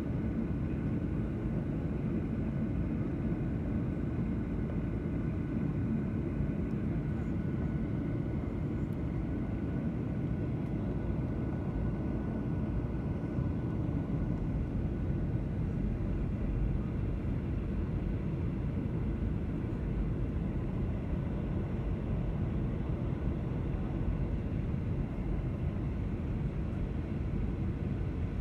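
Steady low rumble of a passenger aircraft's engines and airflow heard from inside the cabin, with a faint steady whine that fades out about halfway through.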